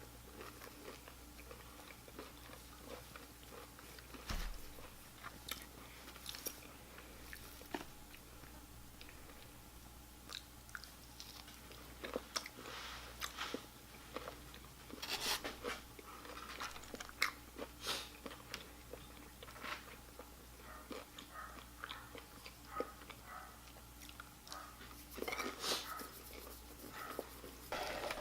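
Close-up eating of fast food: soft, intermittent chewing, biting and crunching with scattered mouth clicks, growing busier and louder about 25 seconds in.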